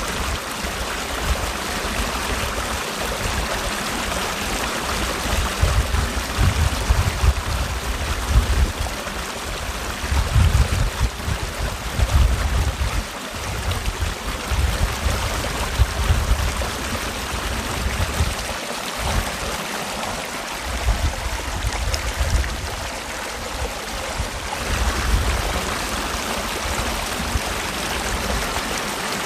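Mountain valley stream rushing steadily, with irregular low rumbles that come and go.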